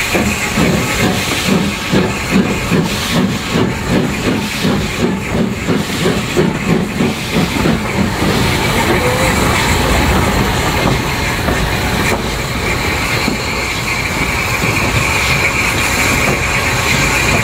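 Somerset & Dorset 7F 2-8-0 steam locomotive working, its exhaust beats in an even rhythm of about two to three a second, which then give way to a steady hiss of steam.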